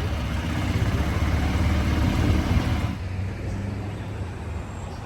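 A car engine running close by, its low rumble growing louder, then cutting off abruptly about three seconds in to quieter street background.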